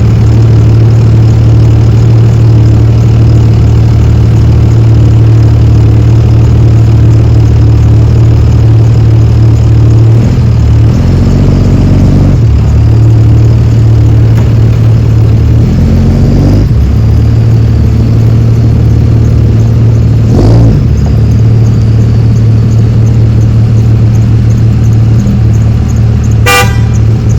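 A vehicle engine running loudly and steadily close by, its pitch shifting a couple of times partway through, with a short sharp sound near the end.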